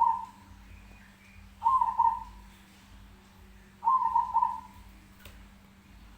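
A bird calling three times, about two seconds apart. Each call is a short, loud, mid-pitched note or double note that fades away quickly.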